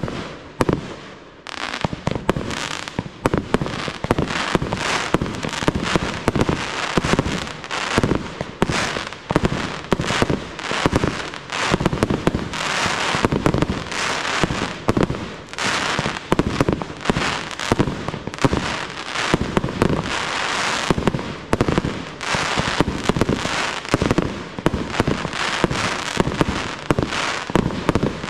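Fireworks display: aerial shells bursting in quick succession, many reports a second in a dense, unbroken barrage after a brief lull about a second in.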